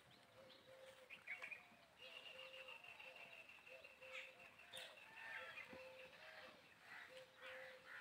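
Birds chirping faintly: scattered short chirps over a short low note repeated about once a second, with a high steady trill from about two seconds in until just past five seconds.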